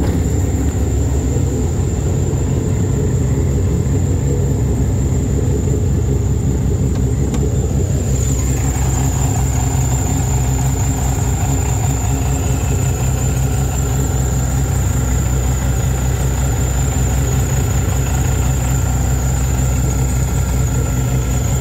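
Shelby GT500 Super Snake's supercharged 5.8-litre V8 idling steadily, a deep even rumble with a thin high whine held over it. About eight seconds in the sound turns brighter and fuller in its upper range.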